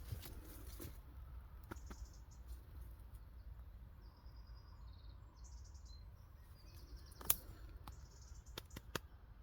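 Faint songbirds singing and trilling in a forest over a low steady rumble, with a sharp click about seven seconds in and a couple more near the end.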